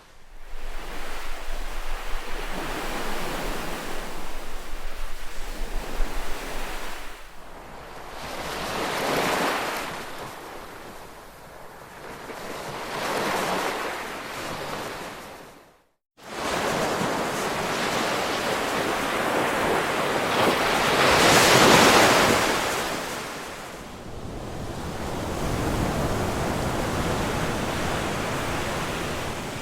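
Ocean waves washing in and receding, the surf noise swelling and fading every few seconds. The sound cuts out to silence for a moment about halfway through, then resumes.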